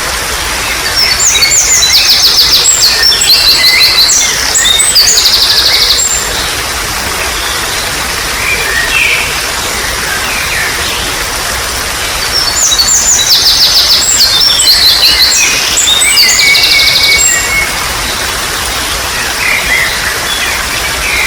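Water trickling steadily under wild birdsong. A bird sings two bouts of rapid, high trilled phrases, one near the start and one past the middle, each about five seconds long, with scattered shorter chirps between.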